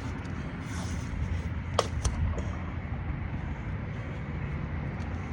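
Wind buffeting the microphone: a steady low rumble, with a few light clicks about two seconds in.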